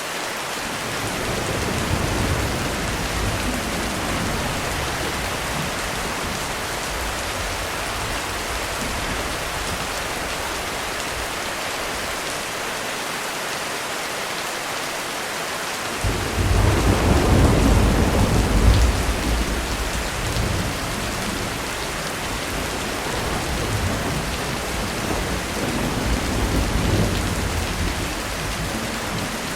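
Heavy rain falling steadily on a roof, with thunder rumbling over it. A low roll builds a second or two in, a much louder rumble breaks in suddenly a little past halfway and fades over several seconds, and another roll comes near the end.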